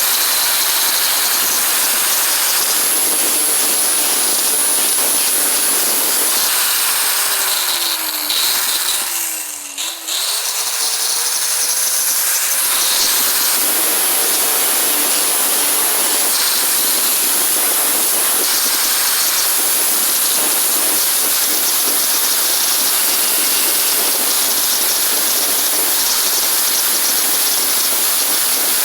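A power tool running steadily with a loud hiss. About eight seconds in it drops in pitch and level, then speeds back up about two seconds later and runs on steadily.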